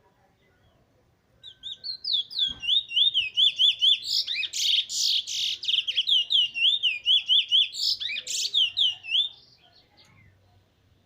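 Trinidad bullfinch singing: a fast, even series of high whistled notes, about five a second, lasting some eight seconds, with a harsher, buzzier stretch in the middle.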